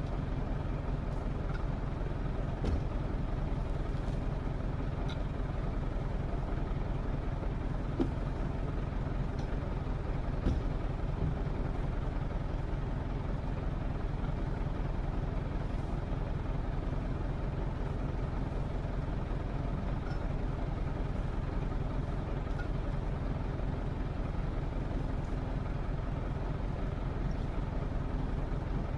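A heavy engine running steadily at low speed, a low pulsing rumble, with a few short knocks or clinks in the first half.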